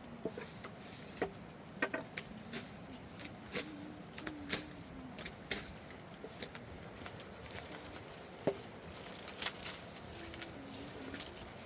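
Scattered light clicks and taps at irregular intervals over a faint steady background, with one sharper knock about eight and a half seconds in.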